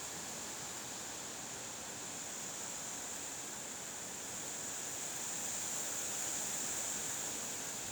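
Wind: a steady rushing hiss that swells slightly about five seconds in.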